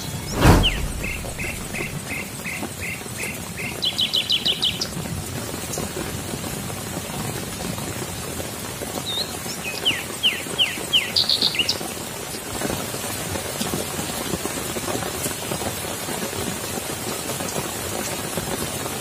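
Steady rain falling on leaves and waterlogged ground. A bird calls in two bouts of short chirps ending in a quick trill, one near the start and one about halfway through. A single sharp knock comes about half a second in.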